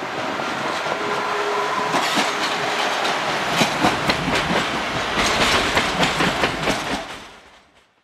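NS Sprinter electric multiple unit passing close by, its wheels clattering over the rail joints in a run of sharp clicks. The sound fades away about seven seconds in.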